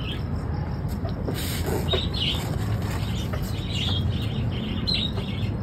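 Birds chirping in short bursts, four or so times, over a steady low hum.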